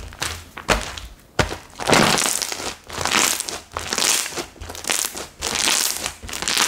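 Slime being squeezed and pressed by hand, giving crackly, crinkling pops in repeated bursts about once a second.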